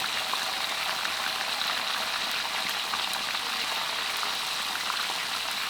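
Chicken pieces deep-frying in hot oil: a steady, dense sizzle with many fine crackles.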